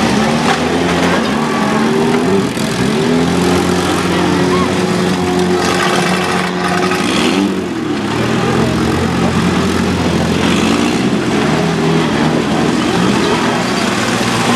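Several small demolition-derby cars' engines running and revving at once, their pitches rising and falling and overlapping as the cars push and shove through the mud.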